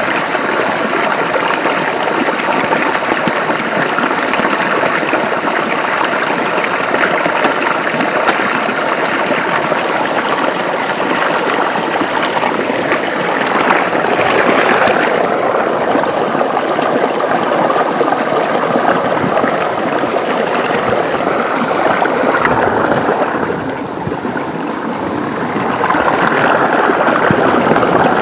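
Forest river rushing and gurgling over rocks in a steady, loud wash of water noise, swelling briefly about halfway through.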